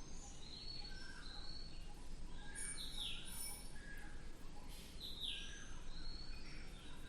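Several birds calling: short high whistles and chirps overlapping, with a louder downward-sweeping call about three seconds in and again about five seconds in, over a steady background hiss.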